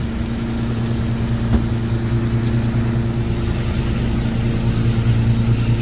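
Fishing boat's engine running steadily with an even low hum, and a single light tap about a second and a half in.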